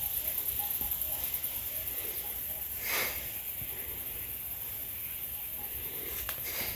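Someone walking through dry scrub: faint crunching steps and ticks of twigs and leaves, with one brushing swish of vegetation about three seconds in, over a steady high hiss.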